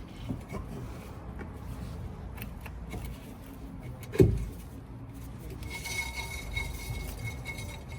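Metal brake and hub parts being handled: light rubbing and small clinks, with one heavier thump about four seconds in, and a faint steady high tone in the last two seconds.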